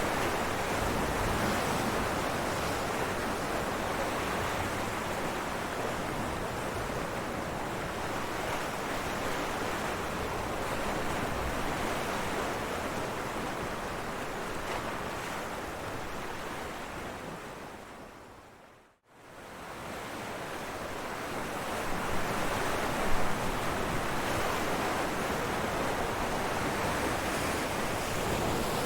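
Ocean waves breaking on rocks: a continuous wash of surf that fades down to silence about two-thirds of the way through and fades back up, with a brief louder crash a few seconds after it returns.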